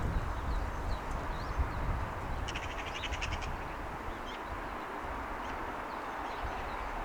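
Steady distant city hum, with small birds chirping now and then. A rapid, rattling bird call lasts about a second, starting two and a half seconds in. Low wind rumble on the microphone fades over the first two seconds.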